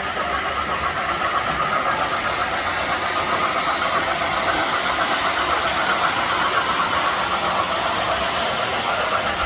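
O scale model train running on the layout, a steady mechanical whir and rumble that grows slightly louder toward the middle.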